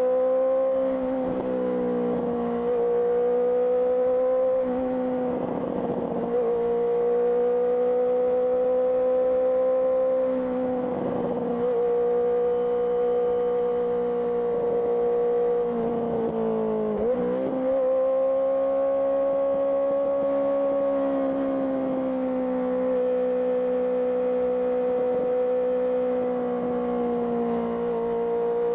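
Honda CBR650R's inline-four engine through an IXIL IXRACE aftermarket exhaust, running at steady revs while riding. The pitch holds nearly constant and dips briefly and recovers about four times, as the throttle eases off and comes back on.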